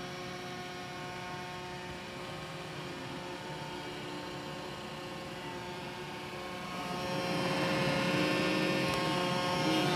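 Roomba j7+ robot vacuum running: a steady motor hum and whine with several steady tones, getting louder about seven seconds in.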